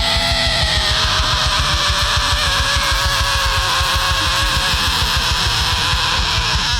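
Live rock band's closing held chord: distorted electric guitars ring out on one sustained chord over fast, continuous drumming. The chord breaks off near the end.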